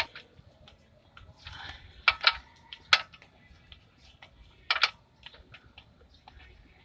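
Sharp metallic clinks of a size-17 wrench working on a car's oil drain plug: a few single clinks, then a quick pair near the end. The plug is stuck tight and will not turn.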